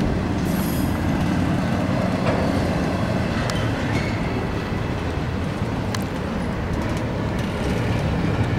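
Intermodal freight train's well cars rolling past: a steady rumble of steel wheels on the rails with scattered sharp clicks and clanks.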